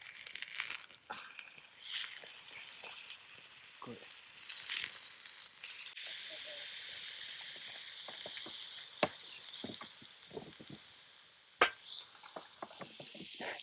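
Food sizzling in a pan, a steady hiss through the middle, with scattered clicks and knocks of utensils and a couple of sharper knocks.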